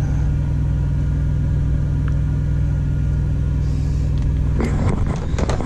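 Semi truck's diesel engine idling, a steady low rumble heard inside the cab.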